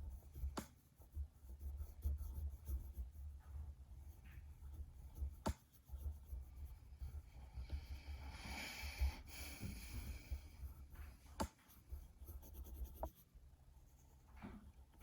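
Drawing on paper: a colouring tool rubbing across the page, with a longer scratchy stroke about eight seconds in, a few sharp clicks, and a low hum underneath.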